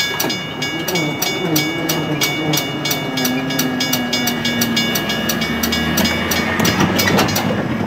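Union Pacific train running, with an even clicking about four times a second over a steady rumble. A lower tone slides down in pitch and then holds, and the rumble swells near the end.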